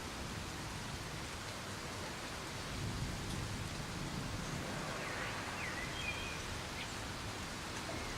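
Soft, steady rain, with a low rumble swelling about three seconds in and a few short bird chirps a little past the middle.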